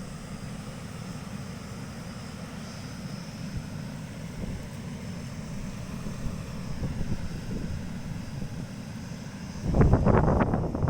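Cyclone wind buffeting the microphone as a steady low rumble, with a stronger gust near the end.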